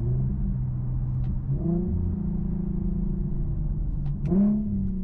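Infiniti Q50 3.7's VQ37 V6 through a custom exhaust with an X-pipe and Flowmaster FX mufflers, rev-matching on rolling downshifts. The engine note steps up about a second and a half in, then rises sharply again near the end. That second throttle blip is the loudest.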